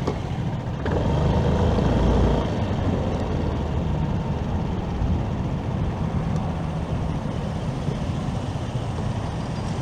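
Steady rumble of wind and road noise from a moving motorcycle in city traffic.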